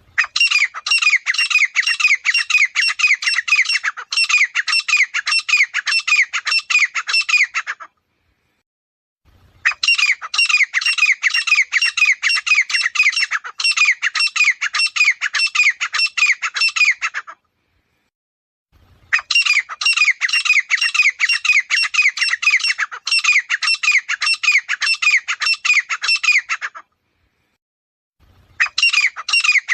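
Grey francolin calling: loud, fast runs of repeated high notes, each note falling in pitch. The runs last about eight seconds each and are separated by a second or two of silence.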